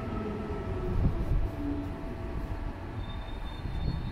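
Passenger train moving along the platform: a low rumble of wheels on track that swells about a second in, with faint steady whining tones above it.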